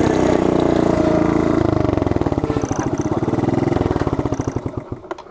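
Small single-cylinder mini bike engine running loudly through a cracked exhaust, then coming off the throttle: from about two seconds in its firing pulses slow down and fade away.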